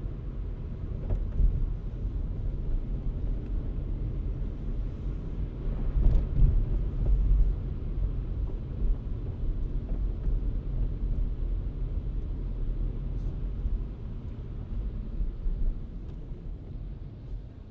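Low rumble of a car driving: road and tyre noise, with a louder bump about six seconds in.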